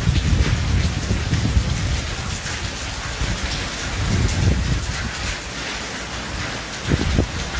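Heavy rain falling steadily, with irregular low rumbles under the hiss, strongest about four seconds in and again near the end.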